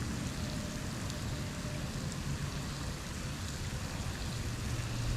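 Steady hiss of rain falling, with a low steady hum beneath it.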